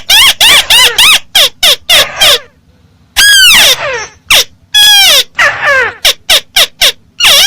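Loud, rapid bird calls, each note arching up and then down in pitch, several notes a second, with a short pause about two and a half seconds in. This is the call of the bird known in Vietnamese as chim mắt xéo, in a recording with the volume turned up.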